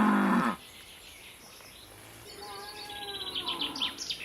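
A cow's long moo ending about half a second in, the loudest sound here. Then a small bird sings a fast, high trill near the end.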